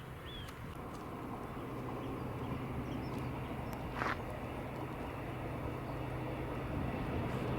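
Distant engine drone slowly growing louder, with a few short chirps near the start and a sharp click about four seconds in.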